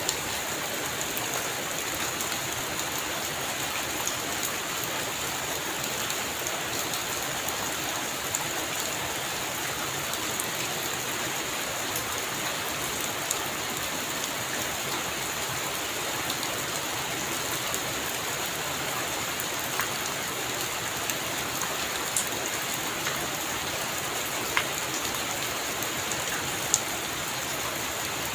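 Steady heavy rain falling, an even hiss with individual drops ticking sharply here and there.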